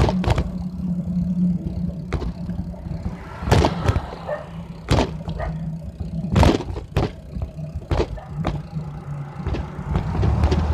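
Bicycle ridden along, heard from a phone in a handlebar mount: irregular sharp knocks and rattles from bumps over a steady low hum.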